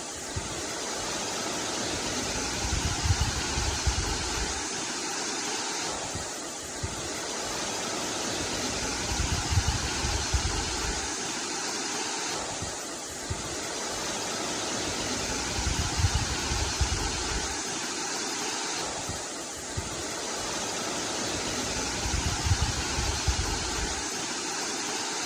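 River water rushing steadily, with a low rumble that swells and fades about every six and a half seconds.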